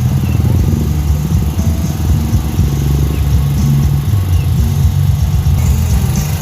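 A vehicle engine running steadily at low revs, with a fast low pulsing.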